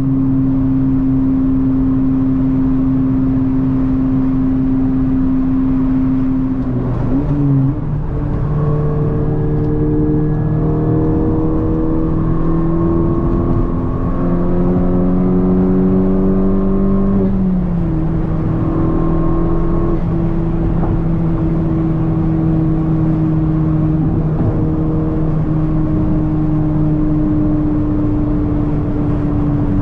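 Honda Civic Si engine pulling hard: the revs climb for about ten seconds, then drop suddenly at an upshift about two-thirds of the way in. It then runs steadily at highway cruise.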